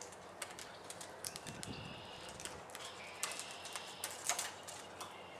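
Birds chirping: a scatter of short, high chirps and brief whistled notes.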